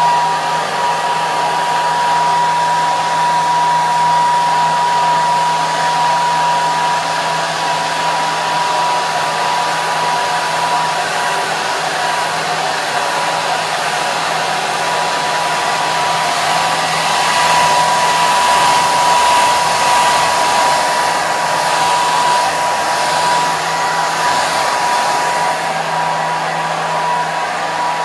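Hair dryer running continuously: a steady rush of air, with a constant whine from the motor and fan.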